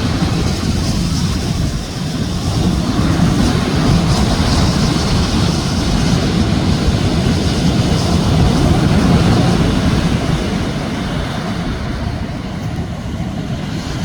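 Sea waves breaking on a beach: a continuous rushing roar of surf that swells and eases every few seconds.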